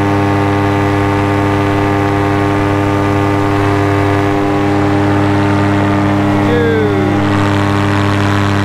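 Paramotor engine and propeller running at a steady, even cruise in flight, a constant drone that holds the same pitch throughout.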